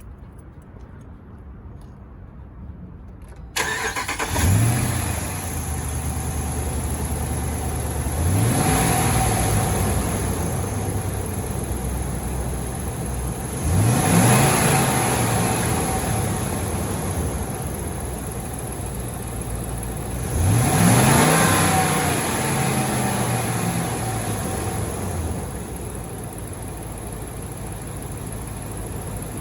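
2011 Ram 2500 pickup engine starting about three and a half seconds in, blipping as it catches and settling to idle. It is then revved three times, each rev rising in pitch and dropping back to a steady idle.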